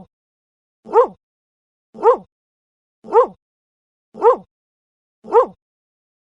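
A dog barking, one short bark about once a second, six times, each bark identical to the last: a single bark sample played on a loop.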